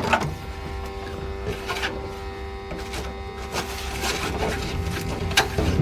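A steady mechanical hum with one clear tone, with light scrapes and clicks from hand work over it.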